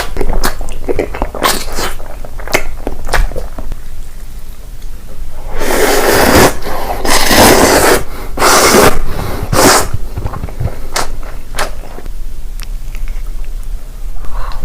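Close-up eating sounds: crisp bites and chewing clicks, with a run of loud crunches between about six and ten seconds in.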